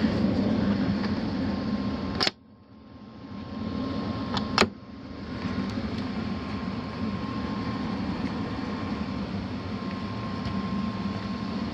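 HVAC air handler running in an attic, a steady fan hum with a faint whine. A sharp click about two seconds in, after which the hum drops out and builds back, and another sharp click a couple of seconds later.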